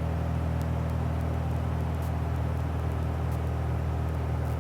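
Cabin drone of a 1966 Cessna 172G's Continental O-300 six-cylinder engine and propeller running steadily under climb power.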